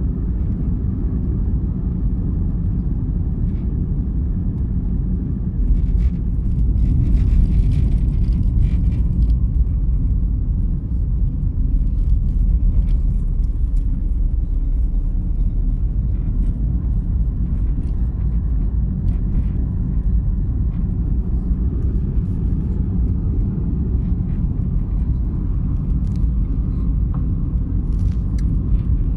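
A vehicle in motion running steadily, a continuous low rumble that grows a little louder about six seconds in, with a few faint light clicks.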